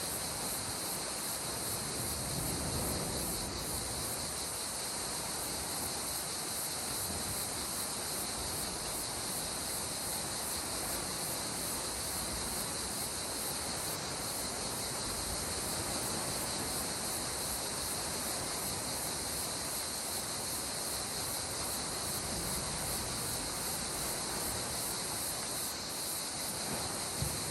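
Gentle sea water washing, with a steady high chorus of insects such as crickets over it.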